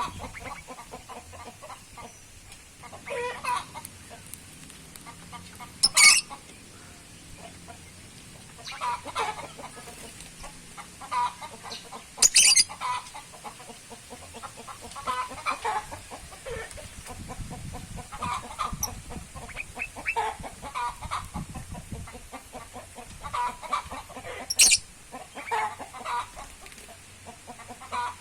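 Birds calling in short clusters every two or three seconds, with a few sharp, piercing calls standing out.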